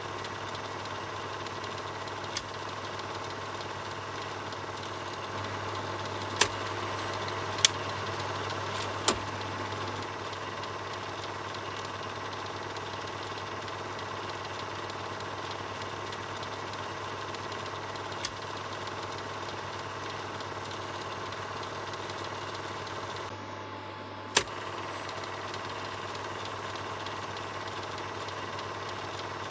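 Film projector running: a steady mechanical whirr and clatter with a low hum, broken by a handful of sharp clicks scattered through.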